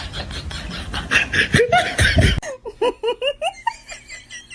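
People laughing hard in loud breathy bursts; after an abrupt cut about halfway in, a quicker run of short, high, rising-and-falling notes, about four or five a second.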